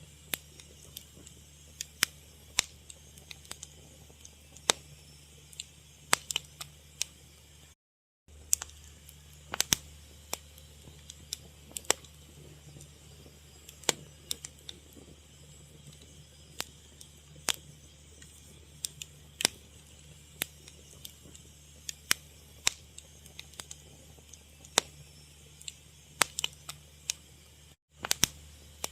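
Fire crackling: irregular sharp pops and snaps over a low steady hum. The sound cuts out briefly about eight seconds in and again just before the end.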